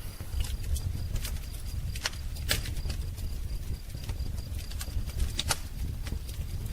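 Wood fire crackling: irregular sharp pops and snaps over a low steady rumble of the flames, with faint bird song in the background.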